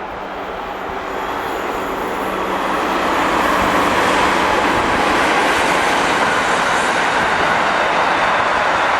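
A train approaching and passing close by on a main line. The rail noise grows over the first three seconds, then stays loud and steady.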